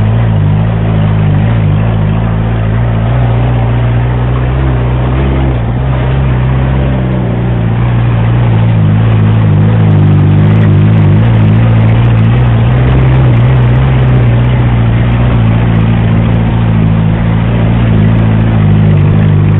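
Off-road 4x4's engine running steadily while driving over rough ground, loud and close, becoming a little louder about eight seconds in.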